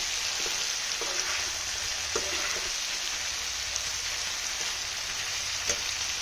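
Tengra fish and sponge gourd sizzling steadily in hot oil and spice paste while being sautéed, with a few sharp clicks of a metal spatula against the frying pan as it is stirred.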